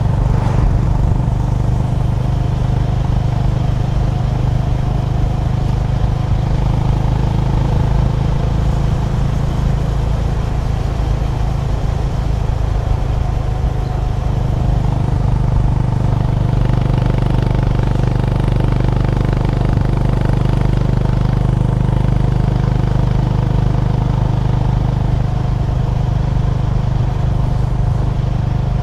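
Honda GB350's air-cooled single-cylinder engine running at a steady cruise while the motorcycle is ridden, a constant low engine note with little change in revs.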